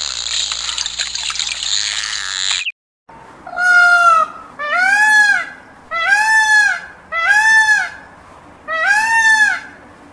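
Loud hiss of moving water, which cuts off about two and a half seconds in. Then a male Indian peafowl gives five loud calls about a second apart, each rising and then falling in pitch.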